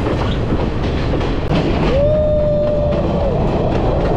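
Passenger train running, heard from the open doorway of a moving carriage: a steady loud rumble with wheel clatter and wind over the microphone. About two seconds in, a steady held tone rises in, lasts over a second and falls away.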